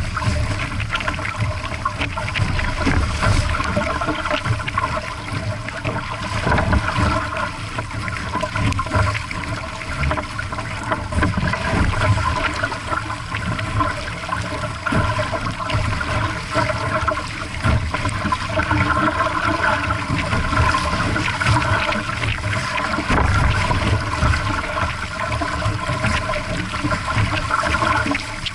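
Water rushing and splashing along a small sailboat's hull in strong wind, with gusts buffeting the microphone in uneven low rumbles.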